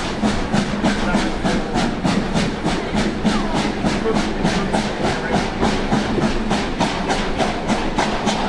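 LMS Black Five 4-6-0 steam locomotive working steadily, its two-cylinder exhaust beating evenly about four times a second over a steady hiss.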